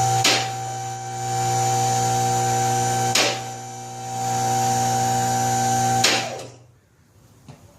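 Vehicle lift's electric hydraulic pump running with a steady hum and whine as the lift raises, a safety catch clicking about every three seconds. The pump shuts off about six and a half seconds in.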